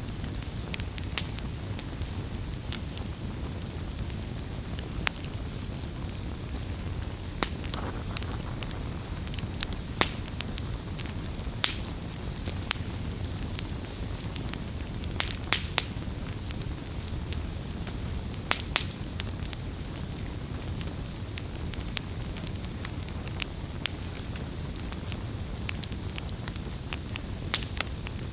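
Campfire burning steadily, with irregular sharp wood crackles and pops over a low rumble.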